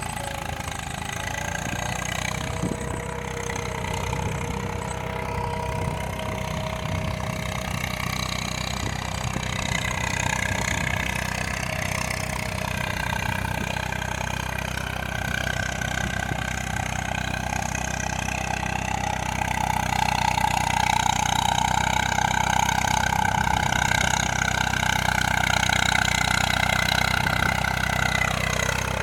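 Tractor engine running steadily, getting louder and higher in pitch about two-thirds of the way through, then dropping back just before the end.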